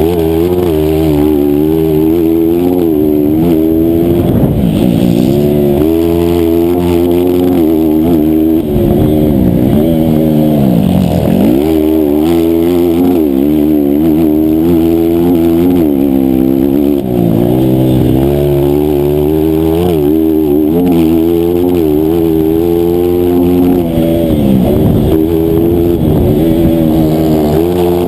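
A 160cc single-cylinder racing motorcycle engine at full throttle, its pitch climbing and dropping again and again as it runs through the gears. Twice, near the middle and near the end, the revs fall deeply and then climb back, as when the rider brakes and downshifts for a corner.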